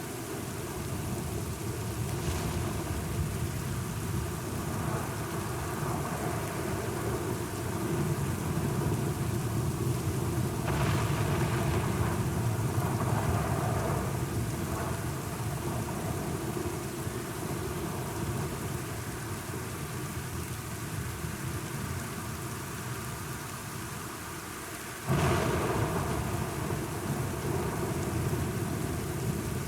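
Thunderstorm: steady rain with thunder rumbling, swelling louder about ten to fifteen seconds in. A sudden, louder crack of thunder comes near the end.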